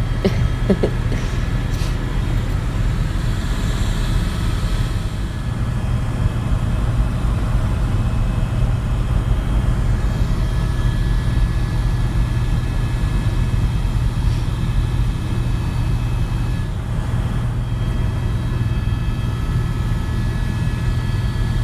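Helicopter in flight, heard from inside the cabin: a steady low drone of rotor and engine with a faint steady whine above it.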